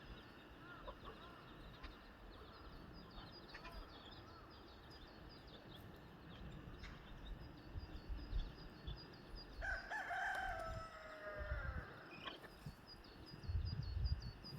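Chicks peeping in a steady patter of small high chirps, and about ten seconds in a rooster crows once, a long call that falls in pitch at its end. A low rumble comes near the end.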